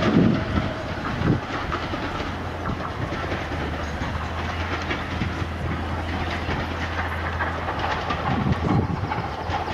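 Train running away along the line, its wheels clicking over the rail joints, with a steady low hum underneath and brief low rumbles about a second in and near the end.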